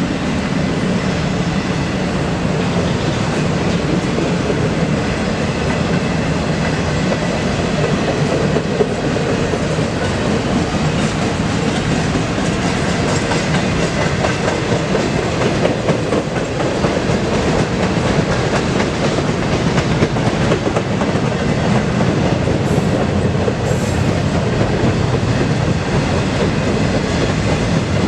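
Freight train cars rolling steadily past at close range, the wheels clacking over the rail joints.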